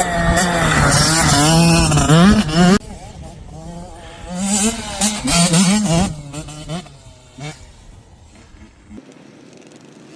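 Kids' dirt bike engines revving up and down as they ride the track, loud for the first few seconds and then cutting off suddenly. Another bike revs up around the middle, then the engine sound fades to a distant hum.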